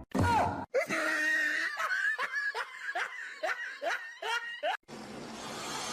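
Laughing in a quick run of short, falling-pitch bursts for about four seconds, then a steady hiss after a sudden cut near the end.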